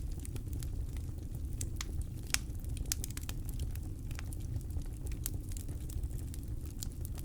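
Campfire crackling: irregular sharp pops and snaps from the burning wood, one louder pop about two and a half seconds in, over a steady low rumble.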